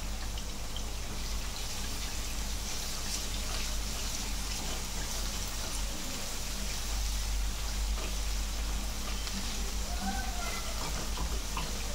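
Steady sizzling of chicken deep-frying in hot oil, together with rice bubbling at the boil in a pan of water, with a spatula stirring through the rice.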